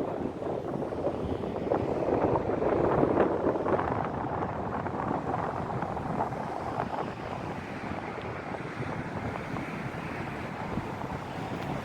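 Wind buffeting the microphone: a steady rushing noise, a little stronger in the first few seconds.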